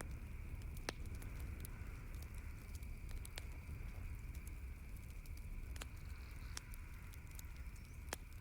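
Campfire crackling, with sharp single pops every second or two over a low steady rumble.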